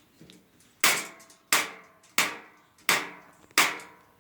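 Repeated sharp bangs at an even pace, five of them about every 0.7 seconds, each followed by a short ringing decay.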